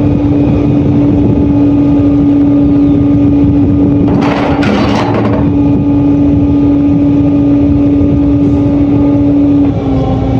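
Vehicle engine idling, with a strong steady hum throughout. A brief hiss comes about four seconds in, and the hum dips slightly in pitch near the end.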